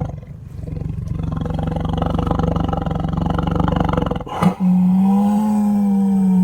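Rhinoceros-style roaring sound effects: one long, low, rough call for about four seconds, a brief break, then a second, higher and steadier call that holds.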